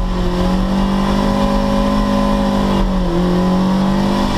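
Lotus Elise S1 Sport 135's mid-mounted 1.8-litre Rover K-series four-cylinder running hard at high, fairly steady revs, heard from inside the cabin. The revs dip briefly about three seconds in and then pick up again.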